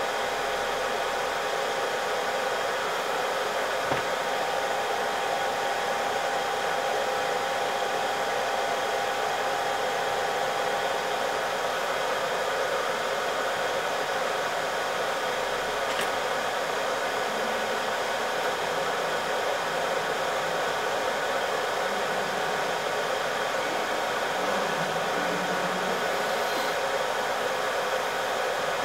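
Hot air gun blowing steadily, heating the laptop's GPU chip during a reflow. A thin whine runs under the rush of air and fades out about midway.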